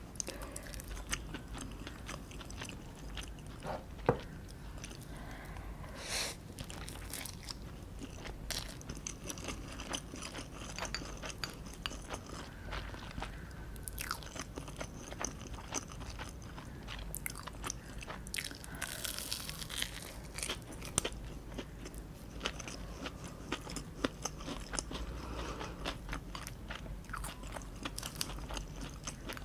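A person biting and chewing food, with crunching and many irregular short clicks of the mouth.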